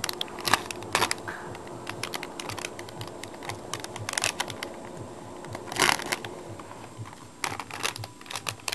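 Wrapping paper crinkling and rustling in irregular small crackles and clicks as a pet rabbit tugs and chews at a wrapped gift, with a louder crackle about six seconds in.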